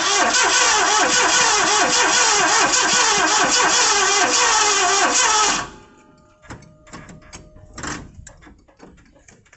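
Ford 460 V8 being cranked by the starter for about five and a half seconds, with a rhythmic rise and fall in pitch, and not catching before it stops suddenly. It is a first start after a rebuild, failing because of a weak battery terminal connection. A few faint clicks follow.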